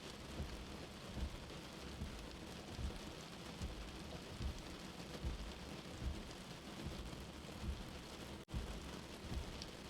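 Steady rain with a soft, low heartbeat-like thump repeating about every 0.8 seconds. The sound cuts out for an instant about eight and a half seconds in.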